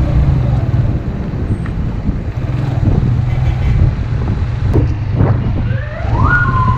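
Steady low drone of a motorcycle ride, engine and wind noise. Near the end a siren starts, sweeping up in pitch and then slowly falling, from the police car escorting the rider.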